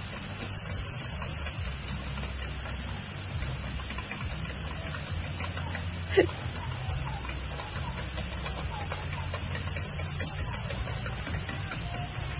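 A steady high-pitched insect drone, with a low hum underneath. One sharp knock about six seconds in is the loudest sound.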